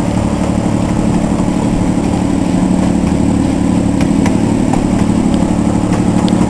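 Miniature train's engine running steadily under way, with a fast even pulse, heard from aboard the train. A few faint ticks come in the second half.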